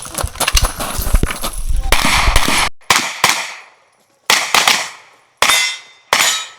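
Handgun fire in a practical-shooting stage: a fast, dense string of shots over the first two to three seconds, then quicker pairs and single shots spaced about a second apart.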